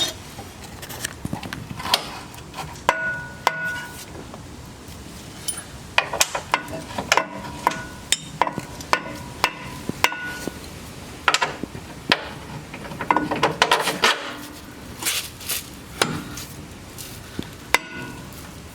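Irregular metal clanks and knocks, some ringing briefly, from a steel lower control arm being fitted into its frame bracket on a Jeep Wrangler JK.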